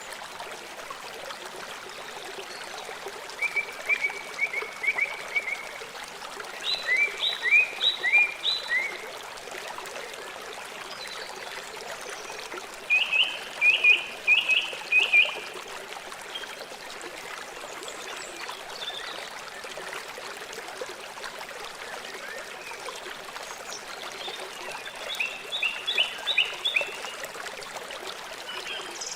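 River water flowing steadily, with four short bouts of rapid, high chirping calls from a small wild animal.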